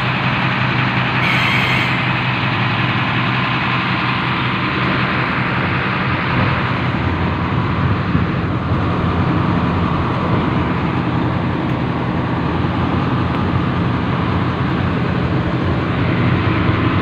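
Engine of a molten-nickel transport train running steadily, heard from aboard the train, with a brief hiss about a second and a half in.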